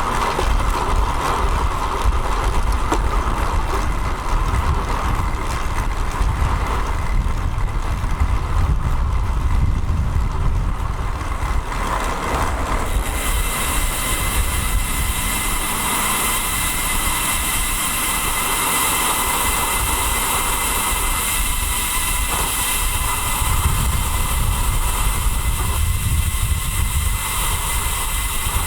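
Steady wind rumble on a bike-mounted action camera's microphone as a road bike rides along, with road traffic noise. About halfway through, a brighter hiss with a few steady high tones sets in.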